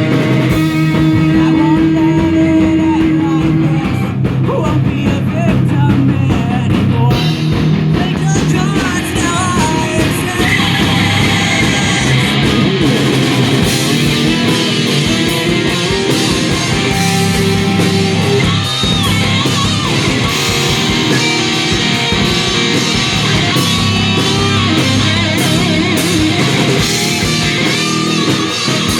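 A heavy metal band playing live, loud and steady, with distorted electric guitars and drums.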